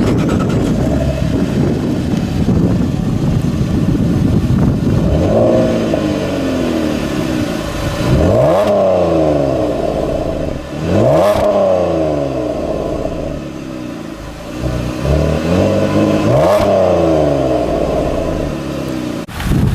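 2011 Chevrolet Camaro's V6 engine running and being revved several times. Each rev climbs quickly in pitch and falls back slowly toward idle.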